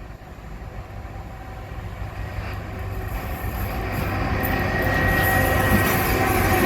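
A train approaching, its rumble and rail noise growing steadily louder, with a thin high wheel squeal coming in about four seconds in.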